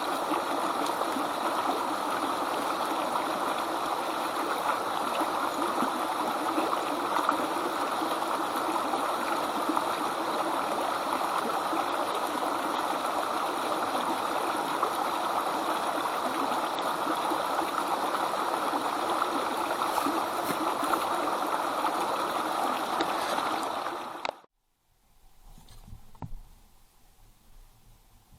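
Steady rush of running water, like a stream, that cuts off abruptly about 24 seconds in. Near-quiet follows, with one faint knock.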